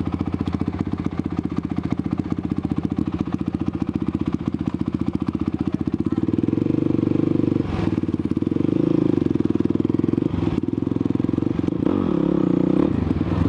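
Honda CRF450X single-cylinder four-stroke dirt bike engine running under way, its rapid firing pulses steady at first, then pulling harder from about halfway in, with two brief breaks in the engine note and its pitch swinging near the end.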